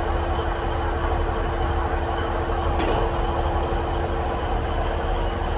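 Class 150 diesel multiple unit's underfloor diesel engines running at the platform with a steady hum over a low rumble.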